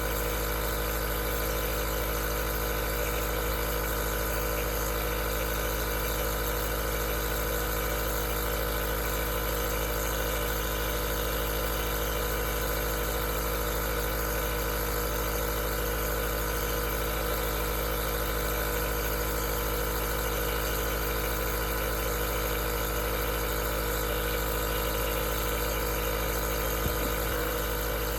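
Aerosol nebulizer running steadily: an unchanging motor hum with a hiss of air. There is one small click near the end.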